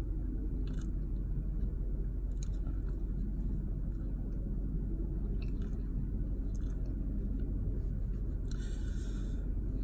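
A man chewing a mouthful of grilled cheese sandwich, with a few soft mouth clicks, over a steady low rumble. A short breathy hiss comes near the end.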